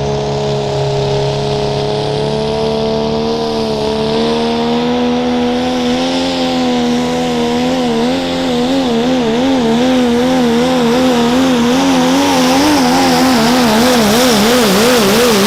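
Diesel pickup truck engine running at high revs under heavy load while pulling a sled. From about halfway through, the engine speed wavers up and down about two to three times a second.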